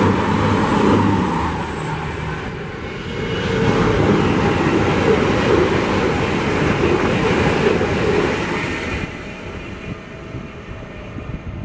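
High-speed passenger train passing on the main line at speed: a loud rushing of wheels on rail that fades over the last few seconds.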